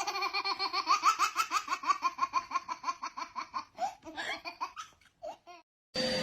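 High-pitched laughter: a rapid run of laughs, several a second, trailing off into a few last ones near the end.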